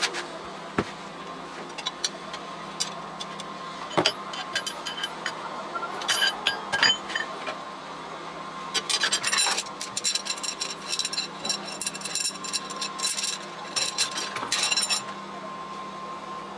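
Small metal objects clinking and scraping against one another in repeated clusters over a steady machine hum.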